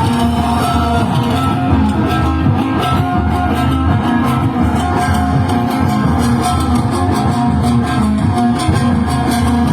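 A live party band playing an instrumental passage: a plucked-string guitar melody over bass, steady and loud.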